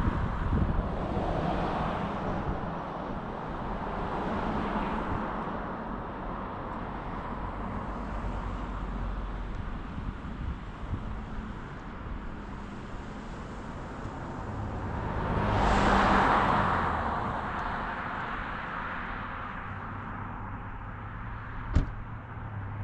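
Car driving along a road: steady tyre and engine noise. About sixteen seconds in, a passing vehicle swells up and fades away, and a single sharp click comes near the end.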